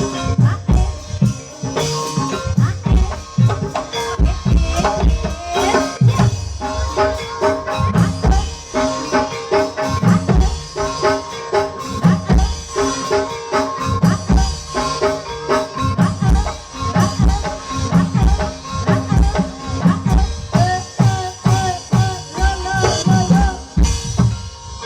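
Live ebeg (kuda kepang) accompaniment music: hand drums beat a fast, busy rhythm under ringing tuned metal percussion, with a wavering melody line rising over it near the end.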